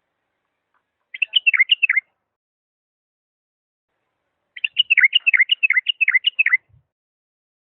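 Bulbul of the Iraqi Diyala song type, a white-eared bulbul, singing two phrases of rapid, sliding whistled notes: a short phrase about a second in and a longer one about two and a half seconds later.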